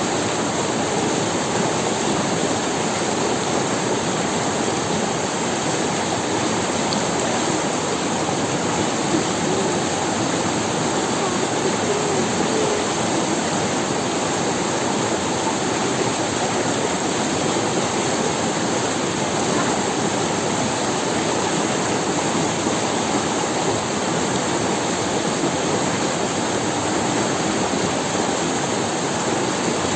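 River water rushing over stones in a steady, unbroken flow.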